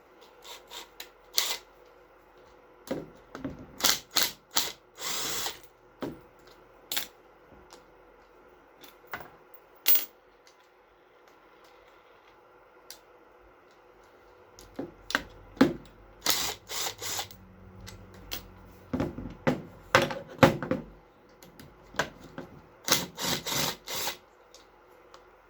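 Hand tools and metal parts of an old 1-inch air impact driver being taken apart: irregular clicks, knocks and clinks of metal on metal, in short clusters with pauses between, and a brief rasping scrape about five seconds in.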